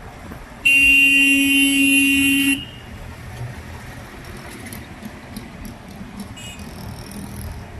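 A vehicle horn sounds once, a single steady honk about two seconds long, over road and traffic noise.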